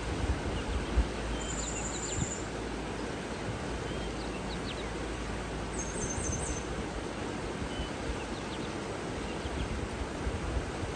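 Outdoor nature ambience: a steady rushing noise of water or wind, with wind buffeting the microphone now and then, and a few faint, high bird calls, a short trill about a second and a half in and another about six seconds in.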